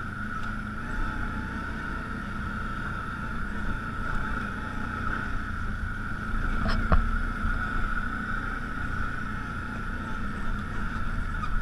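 ATV engine running steadily while riding along a trail, with a constant whine over a low hum. One sharp knock about seven seconds in.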